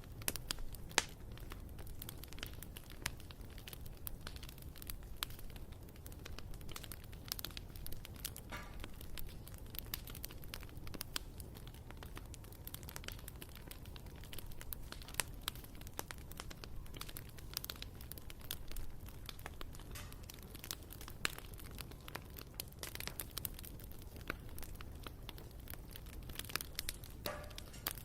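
Bonfire crackling: burning wood giving a dense, irregular run of snaps and pops over a steady low rumble. Two brief falling whistles come through, about eight seconds in and again near the end.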